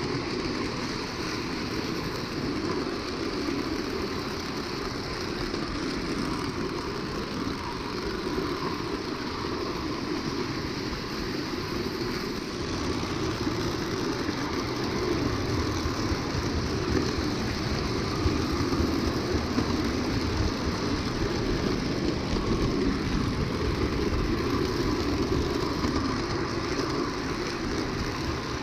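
Lionel O gauge toy train running on three-rail track: a steady rumble of the motor and wheels, growing a little louder from about halfway through.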